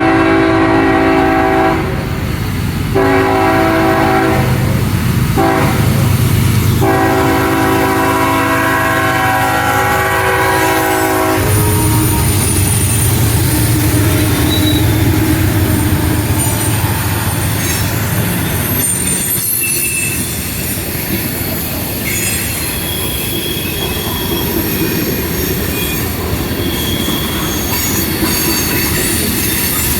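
CSX freight locomotive's multi-chime air horn sounds four blasts, long, long, short, long: the grade-crossing signal. Then the train rolls past with a steady rumble, wheels clacking over rail joints and thin high wheel squeals.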